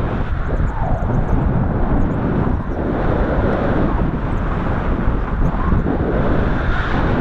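Wind buffeting the microphone during a paraglider flight: a loud, continuous, uneven rushing that swells and dips.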